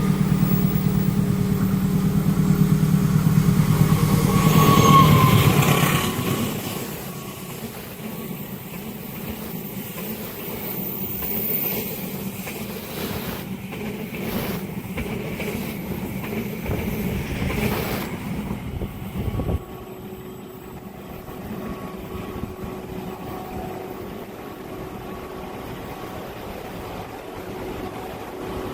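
Diesel-hauled passenger train passing a level crossing. The locomotive's engine is loudest about five seconds in and fades quickly. The carriages' wheels then clatter past until the train's tail clears at about twenty seconds, and quieter background noise remains.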